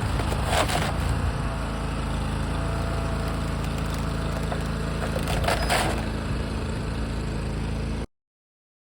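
Toro Dingo compact loader's engine running steadily, with two brief scraping noises, about half a second in and again near six seconds. The sound cuts off abruptly about eight seconds in.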